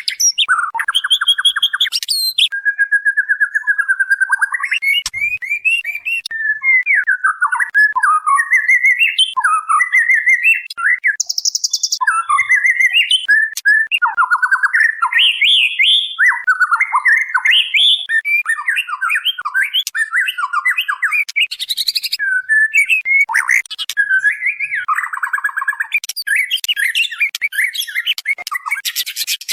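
Female white-rumped shama calling: a continuous stream of quick, varied chirps, slurred whistles and trills, broken now and then by short buzzy rattles. This is the call used to lure a male shama into answering.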